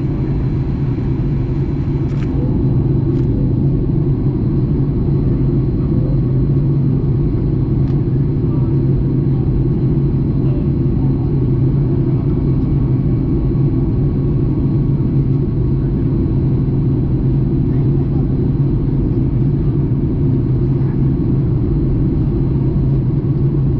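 Boeing 737 MAX 8 cabin noise in flight: a steady low rumble of the CFM LEAP-1B engines and airflow, with a faint steady high whine.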